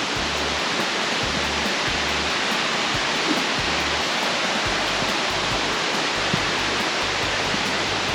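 Steady rushing of a creek's water falling into a cave.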